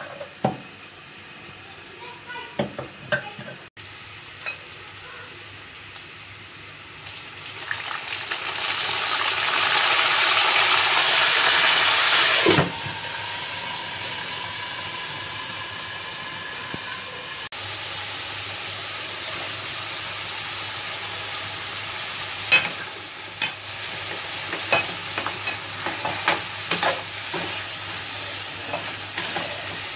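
Chicken and potato pieces frying in a wok: a loud sizzle that cuts off suddenly, then a steadier, quieter sizzle. Near the end a metal slotted spatula stirs them, clicking and scraping against the pan over the sizzle.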